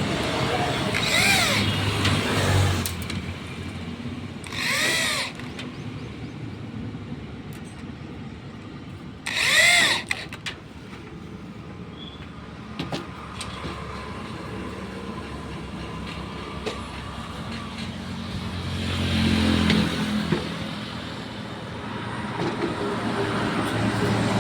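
Electric drill driving screws in short trigger pulses, three times, each a whine that speeds up and winds down. Steady road traffic underneath, swelling as a vehicle passes near the end.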